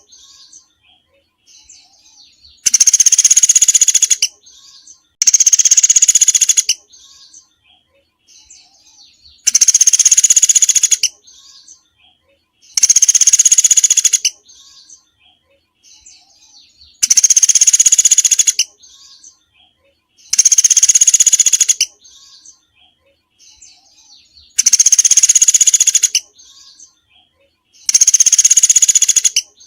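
Recorded song of a small songbird, played as a masteran training loop: a harsh, dense call about a second and a half long, repeated eight times at intervals of three to four seconds, with faint, softer chirps in between.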